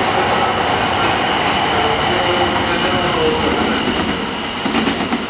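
An E4 series Max Shinkansen coupled to an E3 series 1000 Tsubasa, pulling away from the station platform. The running noise of its wheels and motors is steady, with a thin high tone held through it, and eases slightly near the end as the train draws off.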